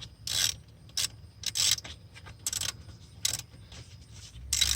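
Hand socket ratchet clicking in short, uneven strokes as a 10 mm nut is run down snug on an alternator's charging-wire terminal.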